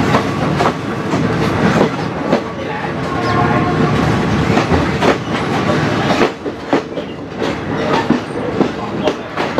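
Passenger train running at speed, heard from a carriage window: steady rumble with wheels clacking over rail joints in irregular strokes.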